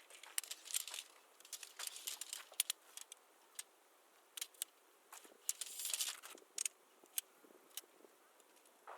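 Small metal objects clinking and jingling in irregular short bursts, with some rustling, as gear is handled.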